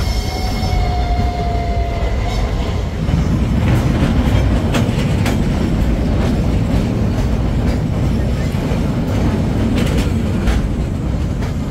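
Narrow-gauge forestry steam train rolling along its track. Its wheels squeal in a high, steady tone for the first two seconds or so, then give way to a heavy rumble with irregular clacks over the rail joints.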